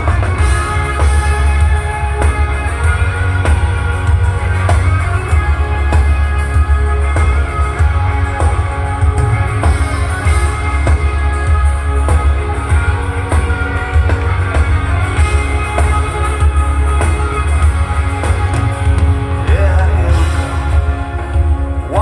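Live rock band playing, recorded in the crowd: electric guitars, bass and drum kit over a heavy low end, with singing in places, a wavering vocal line most clearly near the end.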